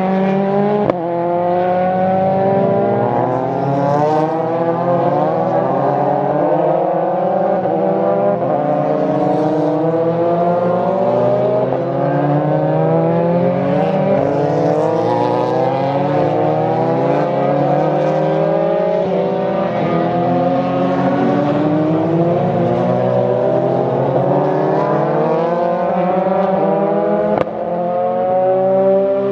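Several Formula 4 race cars accelerating one after another out of the chicane, overlapping engine notes climbing in pitch and dropping back at each upshift.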